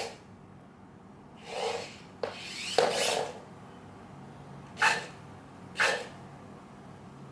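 Parrot Jumping Night mini drone's electric wheel motors whirring in four short rasping spurts as it is driven, with a sharp click about two seconds in.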